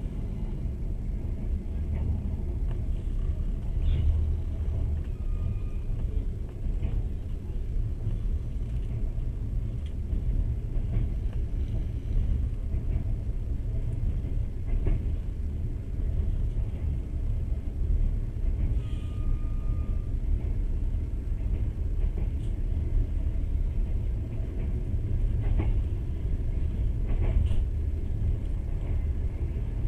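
Passenger train running along the track, heard from inside the carriage: a steady low rumble of wheels on rails, with a few faint clicks and short squeaks.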